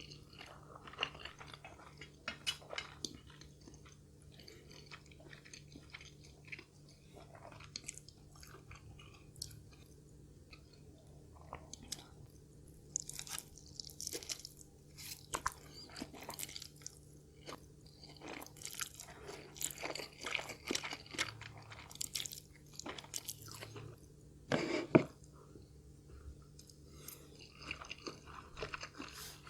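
A person chewing and biting food close to the microphone, with irregular crunches and wet chewing. The loudest crunch comes near the end.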